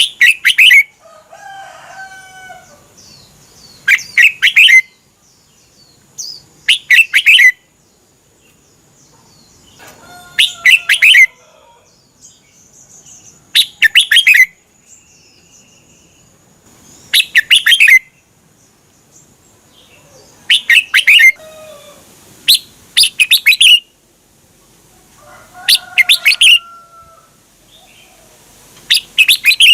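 Red-whiskered bulbul singing loud, quick song phrases about once every three seconds, each lasting about a second, with softer chirps and short whistles in between.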